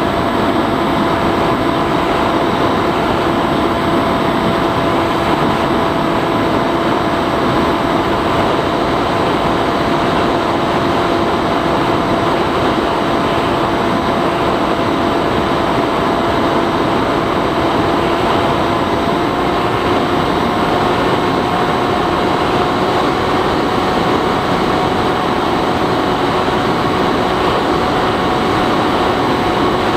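Bixler 3 model plane's electric motor and propeller droning at a steady pitch in flight, over a steady rushing hiss. The pitch rises slightly about two-thirds of the way in.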